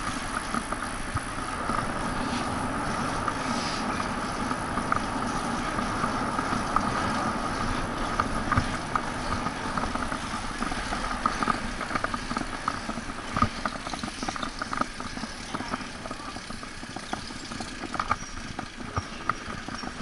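Riding noise of a bicycle on city pavement: a steady hum of tyres and chain, with frequent small clicks and rattles over bumps.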